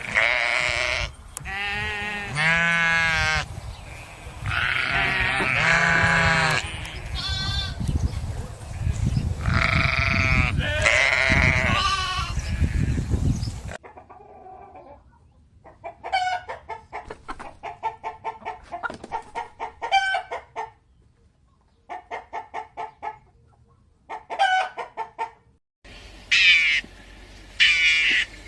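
Goats bleating loudly and repeatedly in long, wavering calls. About halfway through it cuts to hens clucking in quick, quieter runs of short notes. Near the end a different bird's calls begin.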